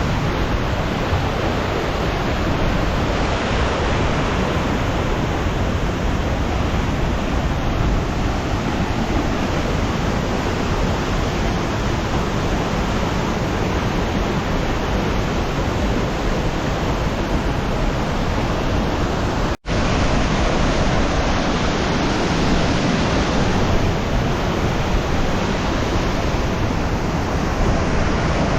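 Waterfall, its water pouring down in a loud, steady rush. The sound cuts out for an instant about twenty seconds in, then resumes the same.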